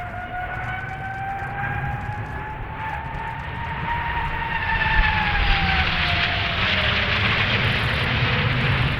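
L-15 advanced jet trainers flying past. A high engine whine climbs slowly in pitch and then drops away after about four seconds as the jets pass. A loud rushing roar swells in about five seconds in.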